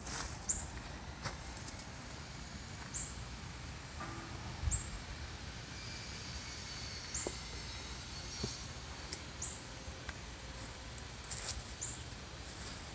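Outdoor background with a small bird giving short, high, falling chirps every second or two. A soft low thump comes about five seconds in.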